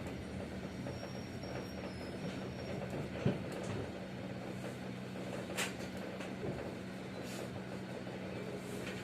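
Passenger train running: a steady low hum and rumble, with a couple of short sharp knocks.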